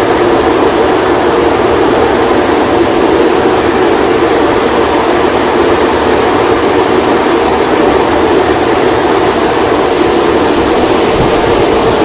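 Automatic car wash machinery running with a loud, steady rushing noise that does not change.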